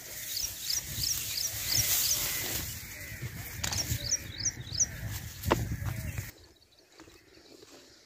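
A bird calling a quick series of short, high, falling chirps, about three a second, in two runs, over a low outdoor rumble. There is a single thump about five and a half seconds in, and the rumble drops away about six seconds in.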